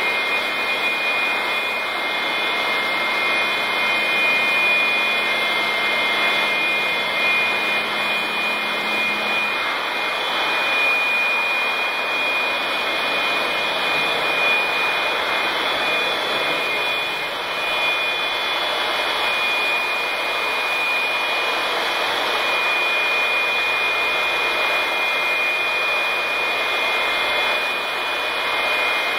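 Electric air blower running steadily, a continuous rush of blown air with a high motor whine over it.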